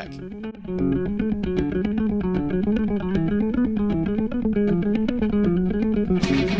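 Mid-1980s heavy metal recording: a picked electric guitar riff over bass guitar and a steady low pulse. Cymbals and the full band crash in about six seconds in.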